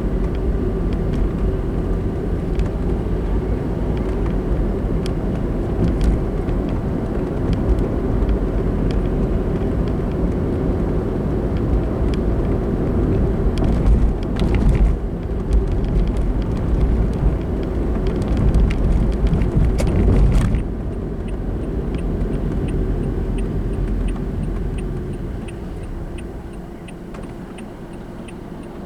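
Car interior noise while driving: steady engine and tyre rumble that eases off about two-thirds of the way through and fades as the car slows. From then on a turn signal ticks regularly.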